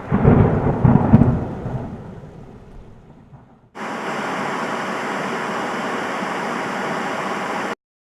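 A thunderclap: a loud crack and low rumble that dies away over about three seconds. Then a separate clip of steady rain starts abruptly, runs for about four seconds and cuts off suddenly.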